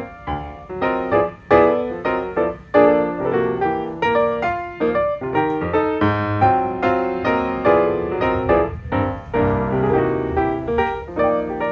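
Background piano music, a steady run of notes that each strike and fade.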